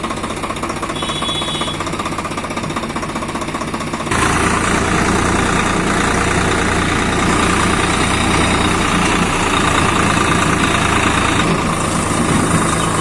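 Swaraj 742 XT tractor's three-cylinder diesel engine running with a fast, even knock. It gets suddenly louder about four seconds in.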